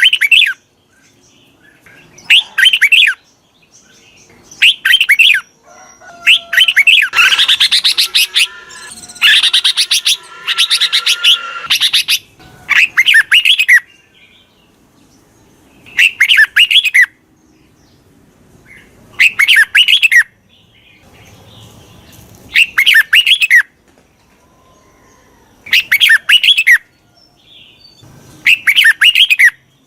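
Red-whiskered bulbul singing: short, bright whistled phrases repeated about every three seconds, with a longer, busier run of song from about seven to twelve seconds in. It is a decoy (mồi) bulbul's call of the kind used to lure wild bulbuls in.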